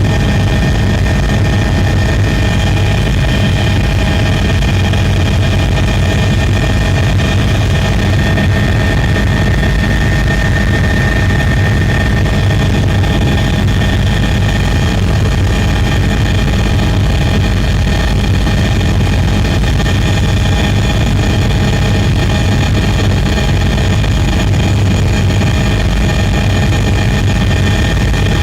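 Steady, loud mechanical drone with a low hum and several constant high whining tones, unchanging throughout.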